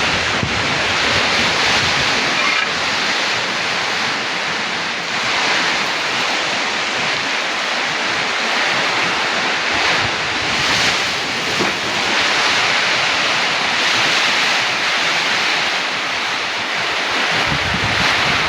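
Heavy rain and strong wind in a storm: a steady rushing hiss, with wind buffeting the microphone near the end.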